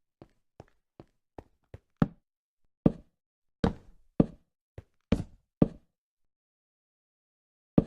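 A series of sharp knocks: faint light taps about two or three a second for the first two seconds, then seven louder, uneven knocks, then a pause before one more near the end.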